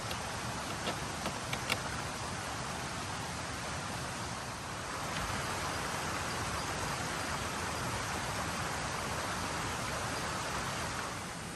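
Light rain falling: a steady hiss with a few sharp drip-like ticks about a second in, growing slightly louder from about halfway.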